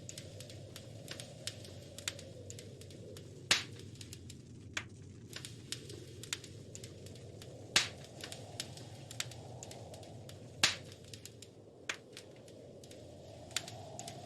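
Wood fire crackling in a fireplace: irregular small snaps and pops over a low, steady rush of flames, with three louder pops, a few seconds in, about halfway, and about three-quarters through.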